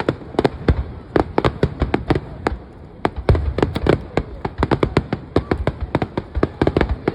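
Fireworks display going off: a rapid, irregular barrage of sharp bangs and crackles, several a second, over low booming.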